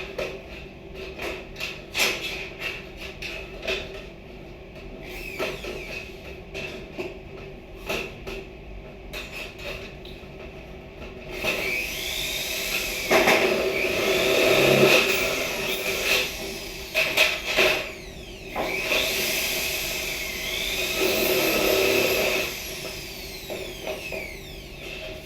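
Scattered knocks and taps of wood being handled, then two runs of a power tool working wood, of about six and four seconds, with a whine that rises and falls.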